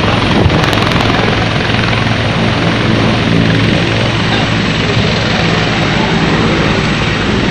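Helicopter's rotors and turbine engine running loud and steady, with a constant low hum under a dense rushing noise.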